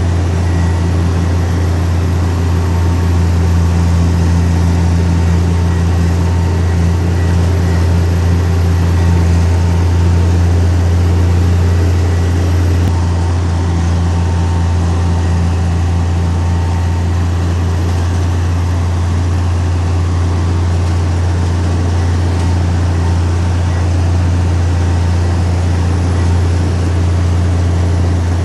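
Heavy diesel engine of earth-moving machinery, a bulldozer or dump truck, running steadily with a deep, even hum.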